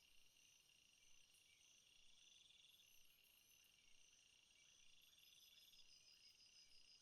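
Faint rainforest insect chorus: several crickets or katydids trilling steadily at different high pitches, with pulsing trills that fade in and out every second or two.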